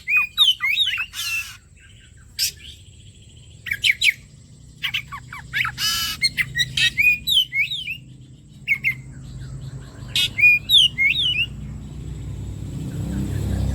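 Oriental magpie-robin (kacer) singing: bursts of quick, varied whistled notes that slide up and down, mixed with harsh rasping notes, with short pauses between phrases. A low rumble builds up near the end.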